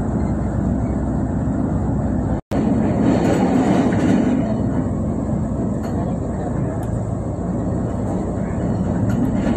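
Pingxi Line diesel railcar running along the track through tunnels, heard from inside at the rear of the train: a steady low rumble of the moving train. The sound cuts out for an instant about two and a half seconds in.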